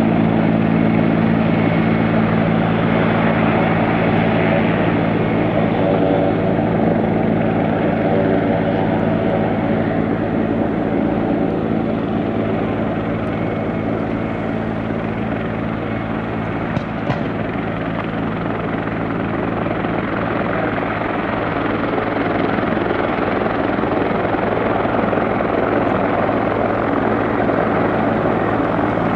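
Aircraft engine running steadily: a loud, even drone with a low humming tone and no change in pitch.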